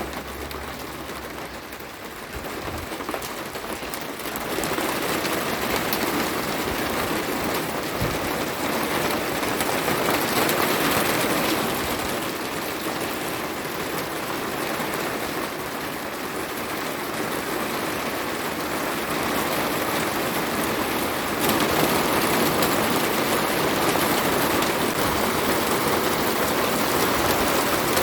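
Heavy cloudburst rain pouring down in a dense, even rush. It grows louder about four seconds in and again near the end.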